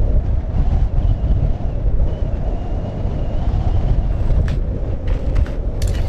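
Wind buffeting the microphone outdoors in cold weather: a loud, gusting low rumble. A few sharp clicks or crunches come in the last two seconds.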